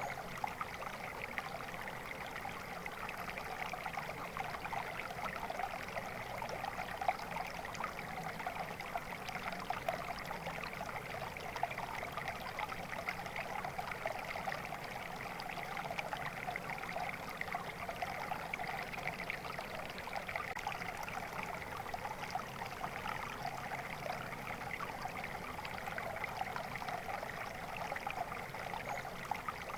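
Water flowing steadily in a stream, a continuous even babble and trickle.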